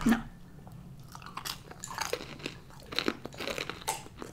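Close-miked chewing of a crispy fried chicken wing: irregular crunches and wet mouth sounds.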